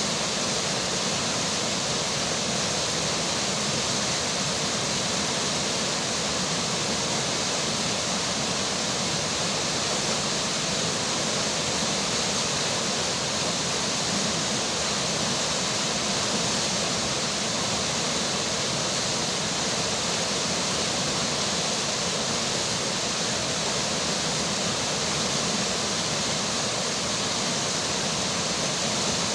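River water rushing steadily, mixed with falling rain, with no breaks or changes.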